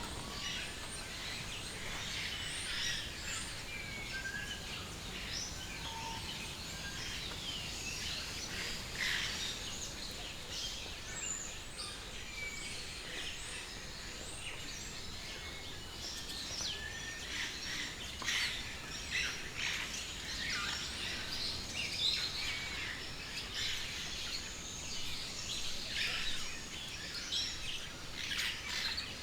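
Many birds chirping and calling together, a dense mix of short high chirps and whistles throughout, over a steady background hum.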